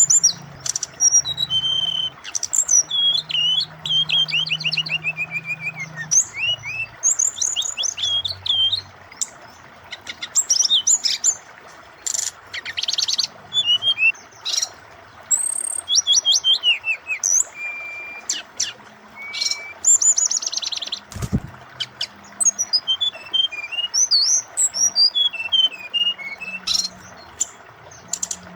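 Brown-chested jungle flycatcher (SRDC) singing a varied song of rapid stuttering trills, short clear whistles and quick rising and falling notes, broken by short pauses, over a steady hiss of running water.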